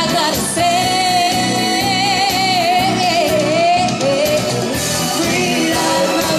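Pop music with a woman singing live. She holds one long wavering note for about three seconds, then moves into another phrase.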